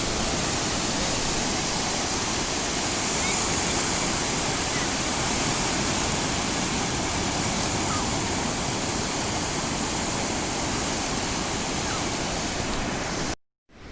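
Sea surf rushing steadily, an even hiss-like roar of breaking water with no pauses, cutting off suddenly near the end.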